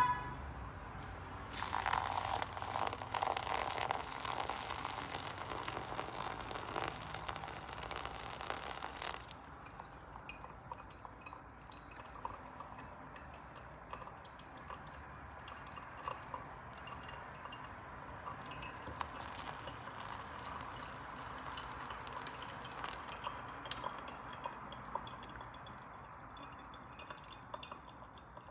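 Boiled water poured into a coffee filter over ground coffee for several seconds, then a quieter steady trickle with small drips as the water runs through the filter.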